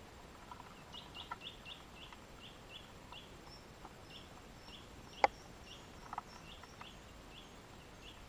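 A bird calling with a quick series of short high chirps, about two or three a second, and a fainter higher note joining in partway through. A single sharp click about five seconds in is the loudest sound.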